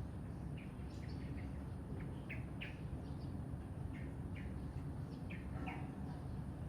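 Birds chirping: many short, high chirps, several in quick succession, over a steady low background rumble.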